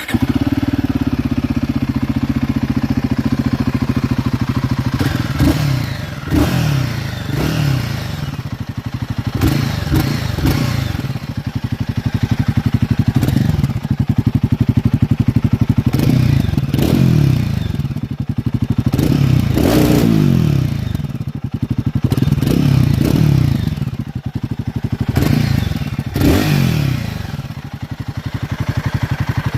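Royal Enfield Guerilla 450's stock exhaust from its 450cc single-cylinder Sherpa engine. It idles steadily for about five seconds, then is blipped again and again, the revs rising and falling back to idle.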